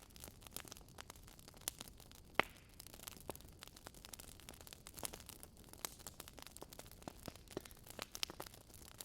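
Wood fire crackling: irregular small snaps and pops, the sharpest about two and a half seconds in, over a faint steady hiss.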